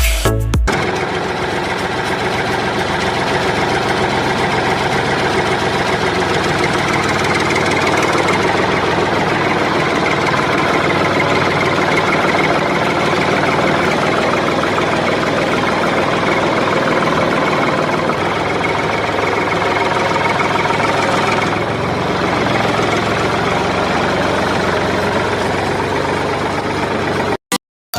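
Small electric motor of a homemade model tractor water tanker running steadily, cutting off suddenly near the end.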